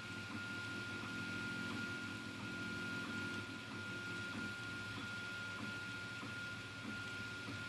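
Anet A8 3D printer printing: its stepper motors whir in short, shifting pitches as the print head moves, over a steady high whine and a hiss.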